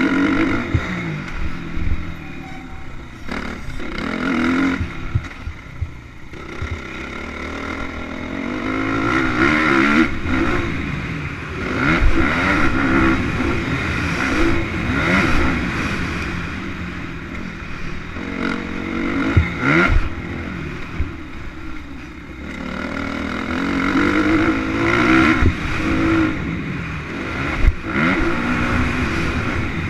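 Motocross bike engines revving up and down, their note swelling and fading several times as the bikes ride the track, with a few sharp knocks along the way.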